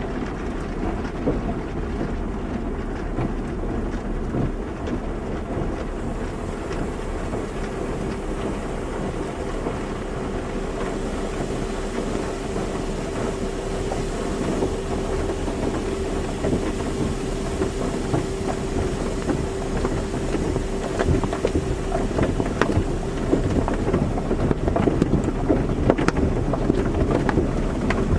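Car wash running: a steady rush of spraying water and machinery, with a steady mechanical hum through the middle. It grows louder near the end, with scattered knocks.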